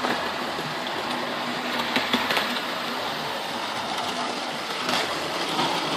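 Model railway locomotive running on the layout: the steady whirr of its small electric motor, with a couple of light clicks from the wheels on the track, about two seconds in and near the end.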